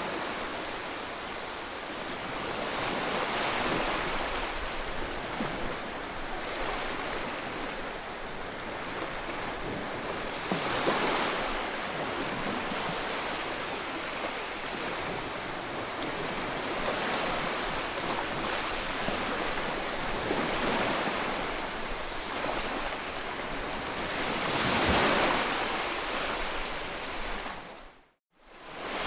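Sea waves breaking and washing ashore: a continuous rush of surf that swells up three times as bigger waves break. Near the end the sound cuts out for a moment, then comes back.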